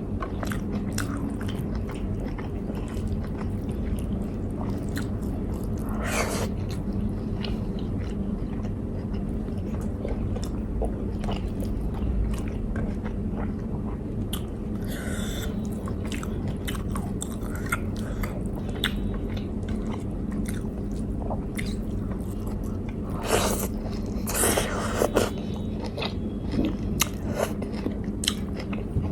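Close-miked chewing and biting of food, with many small wet mouth clicks and a few louder bites around the middle and near the end, over a steady low hum.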